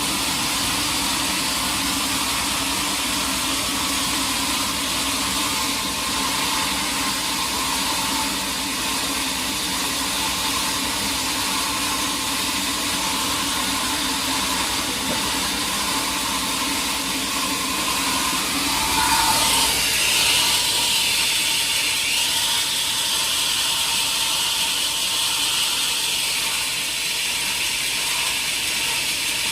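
Sawmill machinery running steadily with a mechanical hum and hiss. About two-thirds of the way through the sound briefly gets louder and brighter, and a higher hiss carries on after that.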